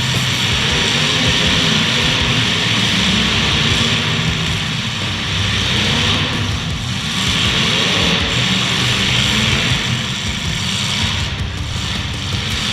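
Demolition derby cars' engines running loudly together, a steady low drone under a hissing wash of noise.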